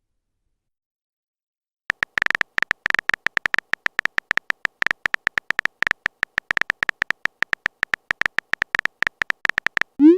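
A rapid, irregular run of short, sharp clicks from a phone keyboard typing sound effect, starting about two seconds in after silence and stopping just before the end.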